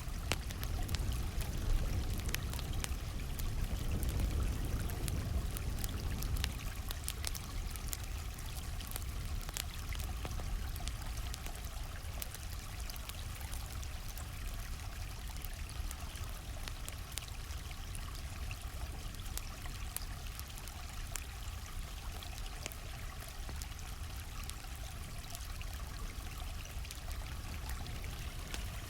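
A stream flowing steadily, with a campfire crackling over it in frequent sharp pops and snaps.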